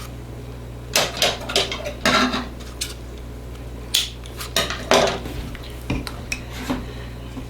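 A table knife or spoon clinking and scraping against a dish or jar in a series of short, irregular knocks, as peanut butter is scooped and spread.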